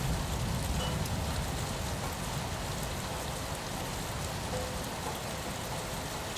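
Steady rain falling on a window, an even, dense patter, with a low rumble underneath that eases off over the first couple of seconds.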